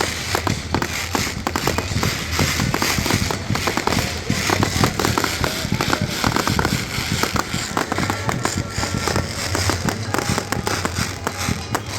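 Fireworks show going off close by: a rapid, unbroken string of bangs and crackles.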